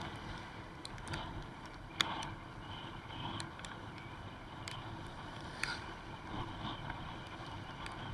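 Steady wash of heavy rain and riding wind on a motorbike rider's microphone, with scattered sharp ticks of raindrops striking it.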